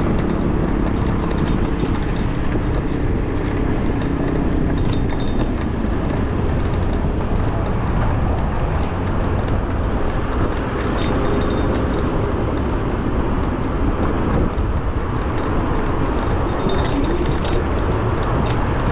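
Steady low rumble of road and traffic noise while riding an electric bicycle at speed on city streets.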